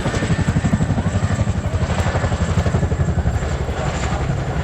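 JASDF CH-47J Chinook tandem-rotor helicopter flying, its rotors beating in a rapid, steady throb.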